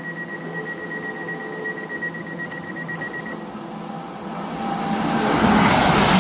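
An express train approaching at speed through the station, its rushing noise swelling from about four and a half seconds in and loud by the end. Before that, a steady high-pitched tone sounds over a low background hum and stops about three seconds in.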